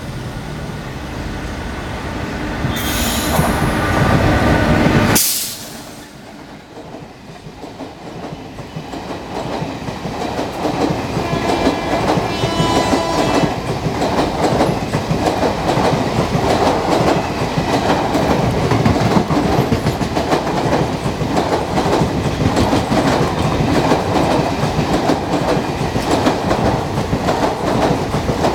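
WAP-4 electric locomotive hauling an express train: a horn-like pitched sound for the first five seconds ends in a sharp burst and a sudden drop. Then the coaches' wheels clatter in a steady rhythm over the rail joints, growing louder, with a brief wheel squeal about twelve seconds in.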